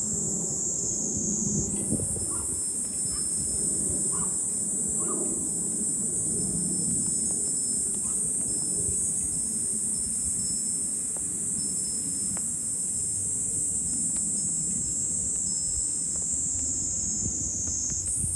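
Cicadas in a dense summer chorus: a steady, high-pitched shrill that rises in pitch about two seconds in and falls again near the end, over a low, continuous rumble.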